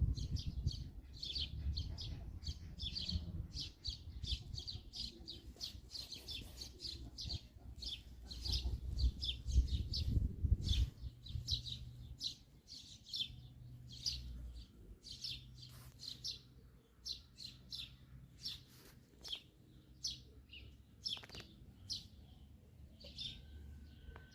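Birds chirping: a steady run of short, high chirps, a few each second, with low rumbling noise in the first half.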